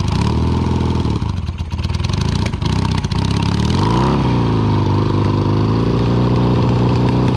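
1978 Yamaha XS650's air-cooled parallel-twin engine running, with a brief rev about four seconds in before it settles back to a steady note.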